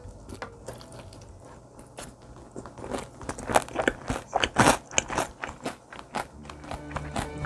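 Close-up biting and chewing of crispy fried chicken, the batter crunching and crackling in irregular bites that are loudest in the middle. Light music comes in near the end.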